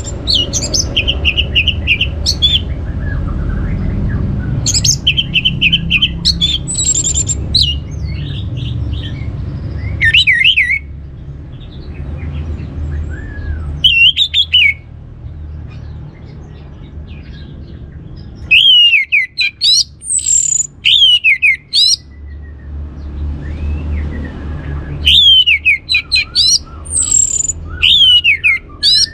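Orange-headed thrush singing: separate phrases of quick trills and loud whistles that sweep up and down, some very high, with short pauses between them and a steady low rumble underneath.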